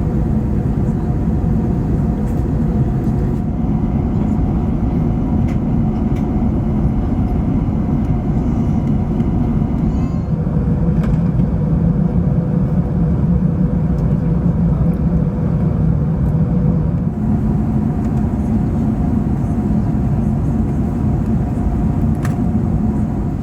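Steady cabin roar of an Airbus A380 in flight: airflow and engine noise, heavy in the low end, with a faint steady hum on top. Its character shifts slightly a few times.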